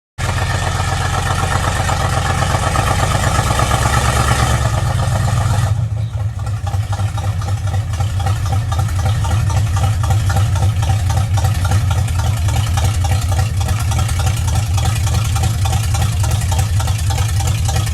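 Chevrolet C10 pickup's engine running at a steady idle with an even, pulsing exhaust; about six seconds in, the higher hiss drops away and the idle runs on.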